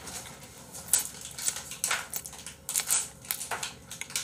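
Close-miked chewing of a crunchy mouthful of food: a run of irregular crunches and wet smacks, several a second.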